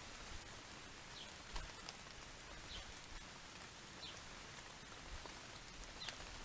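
A small bird repeating a short, high, falling call note four times, over a steady outdoor hiss, with one soft low thump about one and a half seconds in.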